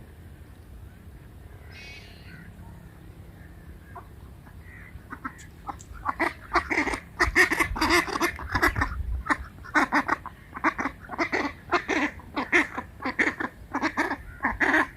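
A flock of domestic ducks quacking. The quacks are short, loud and repeated several times a second, and they crowd in from about five seconds in.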